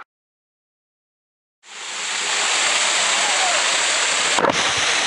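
Dead silence for about a second and a half at an edit, then the steady rushing of a waterfall fades in and holds.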